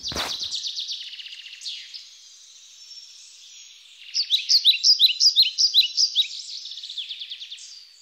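Birds chirping and trilling, thin and high with nothing low underneath, with a loud quick run of repeated chirps, about four a second, around the middle.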